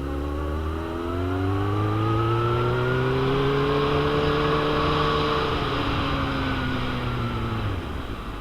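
2001 Suzuki GSX-R750's inline-four engine accelerating: its pitch climbs steadily for about four seconds, levels off and sags slightly, then drops away near the end as the throttle closes. Wind rushes over the microphone throughout.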